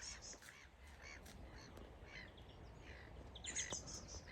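Small birds chirping and calling faintly, short high notes scattered throughout, with a brief flurry of chirps about three and a half seconds in.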